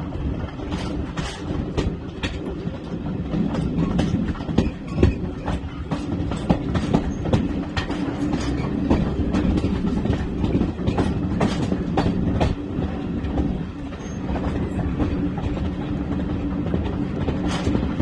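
A diesel-hauled heritage train running along the line: a steady low rumble with the wheels clicking and clattering over the rail joints.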